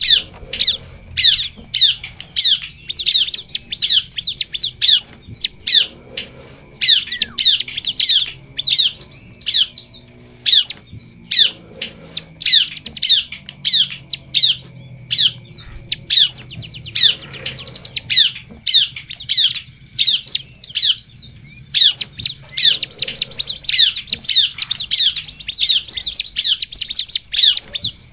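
Bar-winged prinia (ciblek) singing: a fast, unbroken run of sharp high chirps, with louder trilled phrases every few seconds, over a steady thin high tone.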